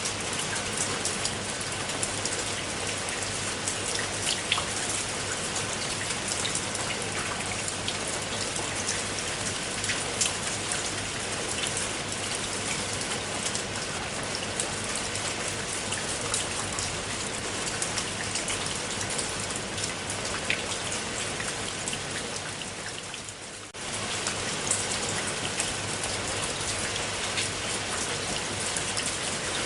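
Steady rain with individual drops pattering on a surface. About three-quarters of the way through it fades briefly, then cuts straight back in.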